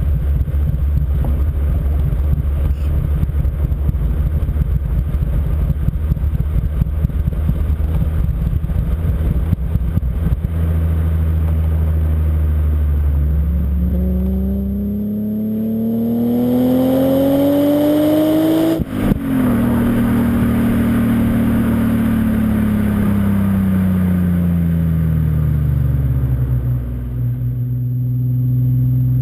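BMW M5 E34's 3.8-litre straight-six S38B38 engine through a Scorpion exhaust: a steady, throbbing note, then rising in pitch as it accelerates. It breaks off sharply about two-thirds of the way through, then falls in pitch as the car slows and settles into a steady run near the end.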